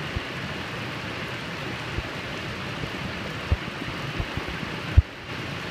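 Heavy rain falling steadily, a constant hiss of downpour. A few short low bumps sound on the microphone, the loudest about five seconds in.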